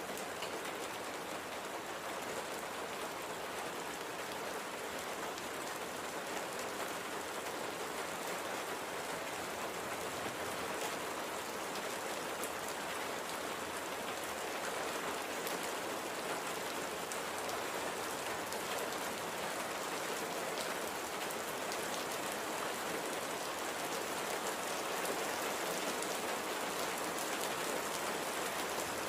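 Steady light rain falling, an even hiss of many small drops with fine individual drop ticks on a surface.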